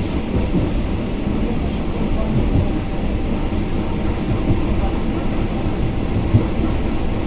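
Steady rumble of a moving suburban electric train heard from inside the carriage, with the wheels running on the rails, and a single short knock about six seconds in.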